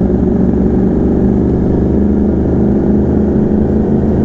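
Sport bike engine running under way at a fairly steady speed, a loud, even engine note without big revs.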